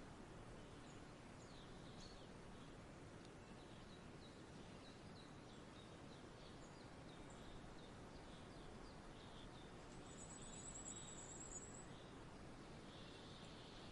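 Faint outdoor nature ambience: a steady soft hiss with small birds chirping now and then in short high notes, and a brief high trill about ten seconds in.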